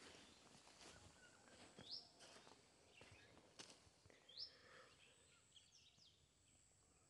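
Faint outdoor quiet in which a bird gives two short high calls about two and a half seconds apart, each a quick rising note, with a few soft ticks in between.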